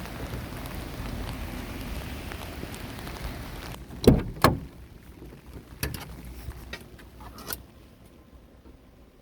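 Steady rain pattering, which drops away suddenly a little under four seconds in. Two heavy knocks follow, then a few lighter clicks and taps.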